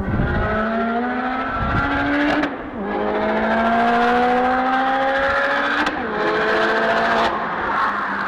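Turbocharged Opel Corsa OPC engine, fitted with a VF34 turbo, accelerating hard under load, its pitch climbing steadily and dropping sharply at three upshifts, about two and a half, six and seven seconds in.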